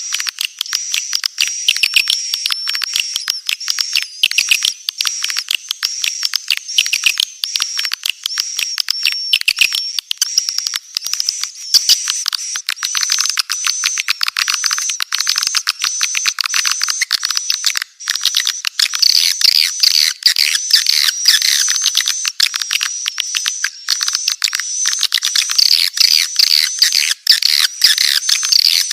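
Swiftlet calls played as a lure call for a swiftlet house: a dense, rapid chatter of high, short twittering chirps and clicks, thin with all low sound filtered out. The chatter grows fuller and louder about two-thirds of the way through.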